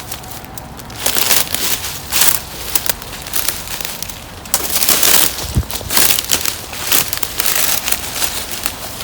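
Footsteps crunching and crackling irregularly through dry fallen leaves and twigs, with one dull low thump a little past halfway.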